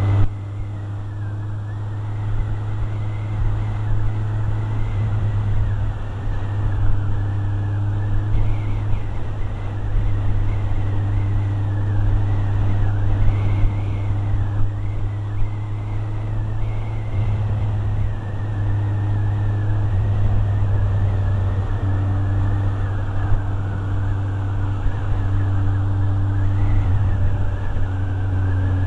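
Motorcycle engine running at a steady speed, heard from the rider's position, with a constant low hum.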